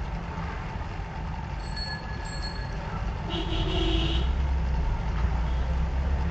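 Car engine and road rumble heard from inside the cabin during a driving lesson, getting louder about four seconds in as the car pulls harder. A vehicle horn sounds briefly about three seconds in.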